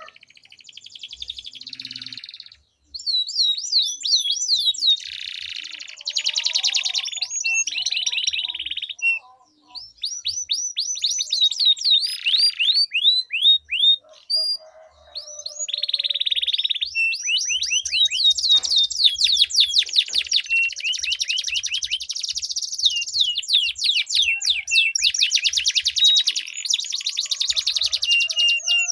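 Domestic canaries singing long rolling trills: fast runs of high repeated notes, with short breaks about 3, 10 and 15 seconds in.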